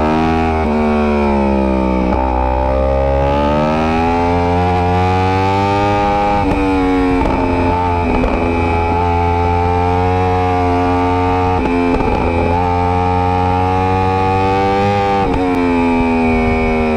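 Superbike engine running hard at high revs, its pitch climbing and falling with short breaks every few seconds like gear changes, over background music.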